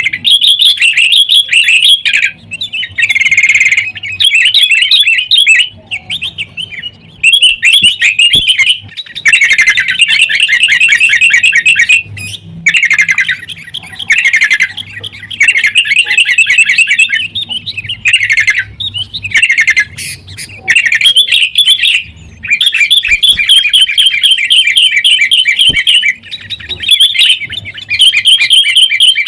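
Sooty-headed bulbuls (kutilang) calling loudly in rapid, chattering phrases, runs of one to three seconds broken by short pauses. This is the excited, squabbling calling of fighting bulbuls.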